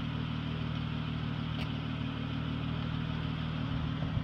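Jeep Wrangler engine idling steadily.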